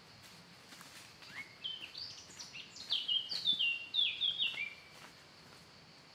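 A songbird singing a phrase of short, high whistled notes, most of them stepping down in pitch. The phrase starts about a second in and stops about four seconds later, over a faint steady hiss.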